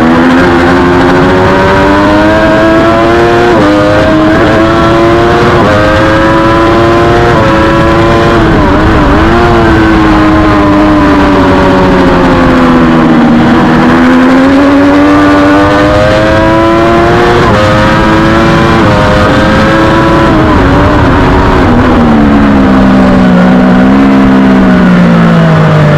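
Race motorcycle's engine at full throttle on track, its pitch climbing through the gears with quick drops at each upshift, several of them in a row, then sweeping down and back up as it slows for corners and accelerates out. A steady rush of wind runs underneath.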